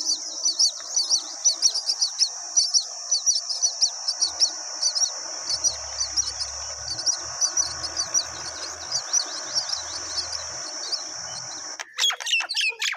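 Many birds chirping rapidly and continuously over a steady high buzz. Near the end the buzz stops suddenly and a few louder, sweeping bird calls take over.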